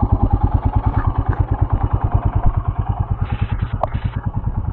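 Royal Enfield Himalayan's single-cylinder engine idling steadily with an even, rapid thudding beat, with a brief scuffing noise and a click about three seconds in.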